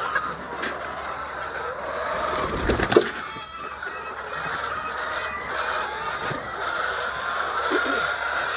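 Chickens clucking, with a single loud knock about three seconds in.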